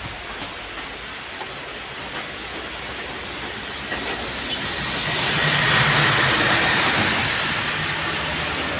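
A heavy truck driving past on a climb, its engine and tyre noise building to a peak about six seconds in, then easing off slightly.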